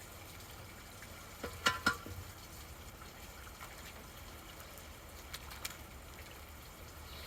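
Rainwater trickling and draining into a storm drain, with two sharp clinks about one and a half to two seconds in.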